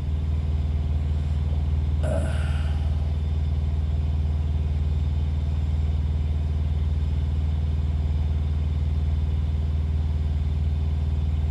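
A truck's diesel engine idling steadily as a low, even hum. One brief noise stands out about two seconds in.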